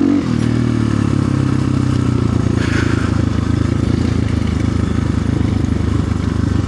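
Orion RXB250XL 250 cc dirt bike engine running steadily while riding. A short clatter comes about two and a half seconds in.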